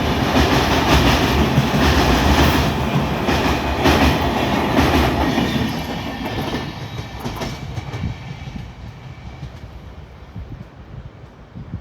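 Train running past, its wheels clattering rhythmically over the rails; the noise fades away steadily after about six seconds as the train recedes.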